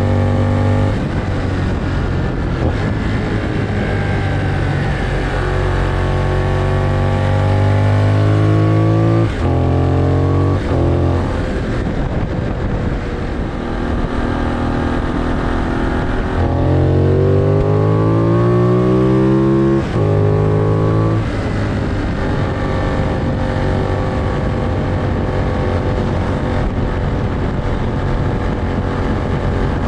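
Benelli 752S parallel-twin engine pulling under throttle while riding. Its pitch rises as it accelerates and drops sharply at gear changes, about nine, ten and a half, and twenty seconds in, over a steady rush of wind and road noise.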